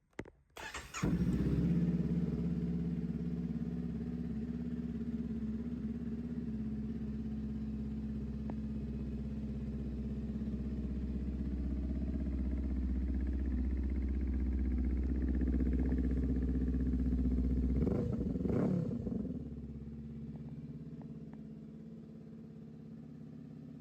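Honda CMX500 Rebel's parallel-twin engine, breathing through an aftermarket Vance & Hines exhaust, starting up about a second in and idling steadily. About three-quarters of the way through it gives one quick rev, then settles back to a quieter idle.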